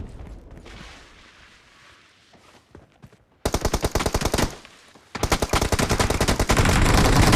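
Automatic-weapon fire in a shooter video game: after a quieter moment a short rapid burst of shots, a brief pause, then a longer sustained burst of rapid, evenly spaced shots.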